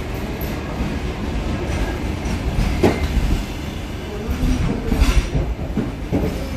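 Railway train rolling past, a steady low rumble of wheels on the rails with a few sharper knocks about three, five and six seconds in.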